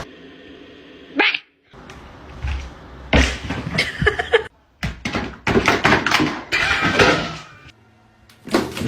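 A string of short pet clips cut one after another: household pet noises and thumps, each starting and stopping abruptly.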